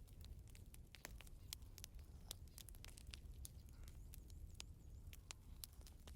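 Campfire crackling faintly, with irregular sharp pops several times a second over a low steady rumble.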